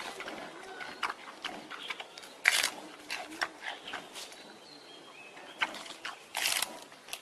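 Animal calls: a run of short, sharp, noisy cries, the loudest about two and a half and six and a half seconds in.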